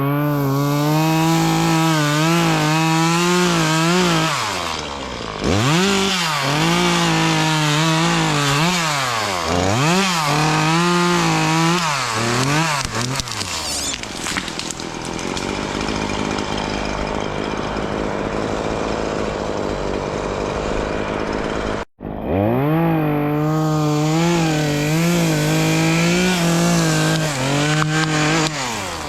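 Gasoline chainsaw cutting through wood, its engine note dipping and recovering again and again as the chain bites in and the saw is eased back. For several seconds in the middle the engine runs at a lower, steady note. After a sudden break the saw is cutting again.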